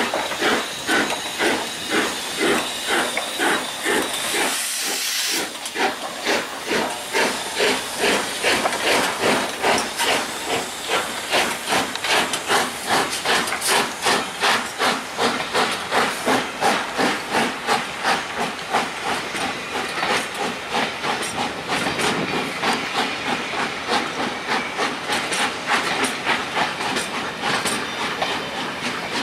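LMS Royal Scot class steam locomotive 46100 pulling away, its exhaust beats quickening steadily as it gathers speed. A loud hiss of steam runs for about the first five seconds, then cuts off suddenly.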